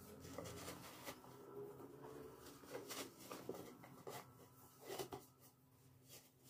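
Quiet handling sounds: soft taps, clicks and rustles of small objects being picked up and moved about, the loudest about five seconds in.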